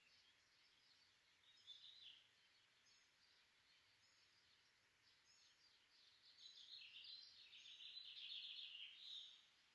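Faint birdsong over a low hiss: small birds chirping and trilling, with a busier run of quick repeated chirps in the second half.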